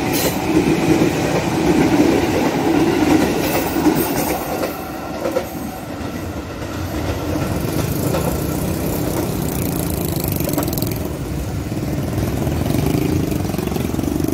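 Electric commuter train running past on the rails, wheels clattering over the track, loudest in the first few seconds. After that the sound drops to a steadier, quieter rumble with some motor noise rising and falling in pitch.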